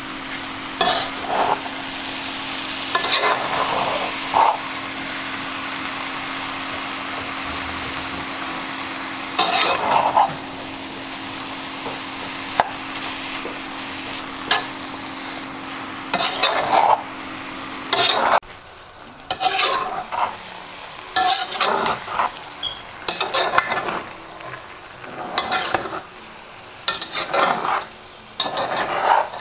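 Beef mince and chopped vegetables sizzling as they brown in a non-stick pot, with a metal slotted spatula scraping and stirring in repeated strokes. About two-thirds of the way through the steady sizzle drops away and gets quieter, leaving mostly the scraping strokes.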